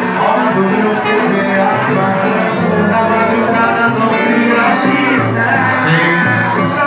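A band playing a song at a steady loud level, with a melody over low bass notes and no clear lead vocal.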